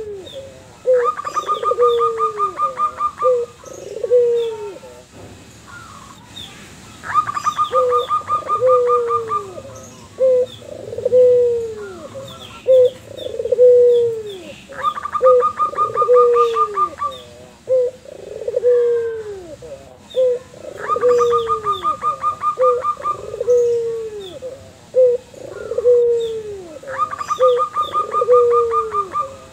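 A white puter dove (ringneck-type turtle dove) and a zebra dove (perkutut) calling back and forth. Low, falling coos repeat about once a second. Every six to eight seconds they are joined by a fast, pulsing run of higher notes that lasts about two seconds.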